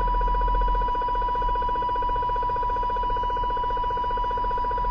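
RF interference on CB channel 29 heard through the CB radio's speaker: a steady whine with a rapid, even pulsing over it, with a low rumble underneath. The uploader matched this oscillating noise to the interference that LED plant grow lights put out.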